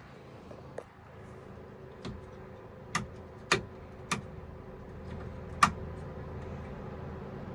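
Six or so sharp clicks and knocks, irregularly spaced, over a faint steady hum.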